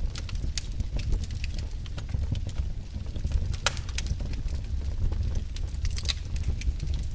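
Wood fire crackling in a fireplace, with many irregular sharp pops and snaps over a low steady rumble of the burning.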